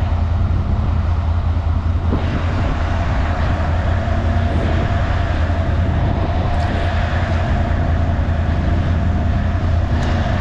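ATV engine running at a steady speed under way, a constant low drone with a steady whine above it.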